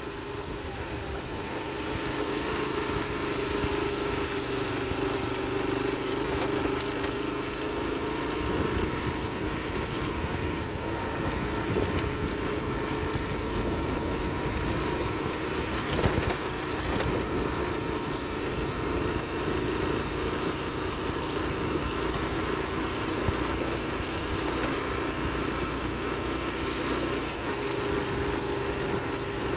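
Yamaha AG125 farm motorcycle's single-cylinder two-stroke engine running at a steady pace while riding, with tyre noise on gravel and wind on the microphone. A single sharp knock about halfway through.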